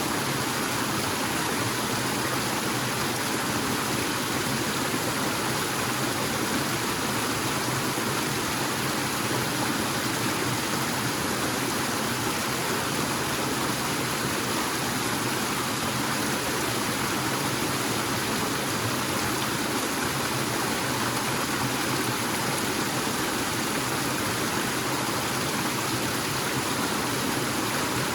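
Small forest waterfall: water falling and rushing, steady and unbroken.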